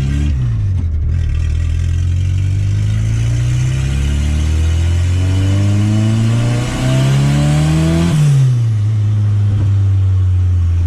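Turbocharged Volkswagen Gol's AP four-cylinder engine accelerating hard, its pitch climbing steadily. There is a brief dip about six and a half seconds in, then another climb. About eight seconds in the pitch falls away as the throttle is lifted.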